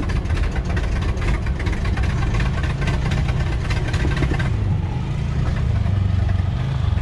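Jeep CJ7 engine running under load with a steady low rumble while the Jeep pushes through woods. For the first four and a half seconds, pine brush and branches crackle and scrape against the body, then die away.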